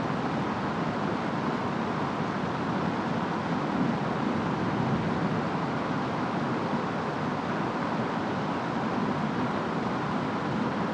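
Steady rainstorm noise, rain and wind making an even, unbroken hiss.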